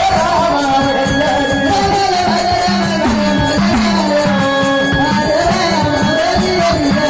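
Marathi devotional folk song in the jagran-gondhal style: a melody sung over a steady, rhythmic percussion beat.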